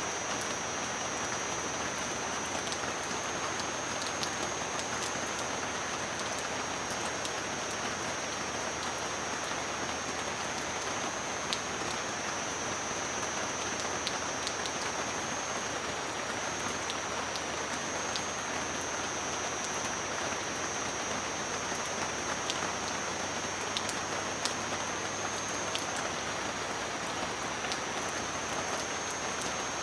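Steady rain falling on surfaces, with scattered sharp ticks of individual drops and a thin steady high tone running underneath.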